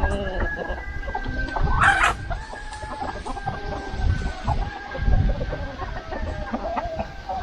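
Free-range chickens clucking and calling, with a rooster crowing, and a sharp squawk-like burst about two seconds in.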